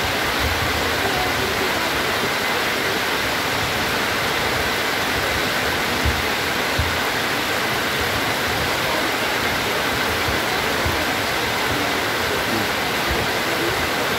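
Heavy tropical rain pouring down steadily, a dense, even hiss of rain falling on an open, waterlogged field.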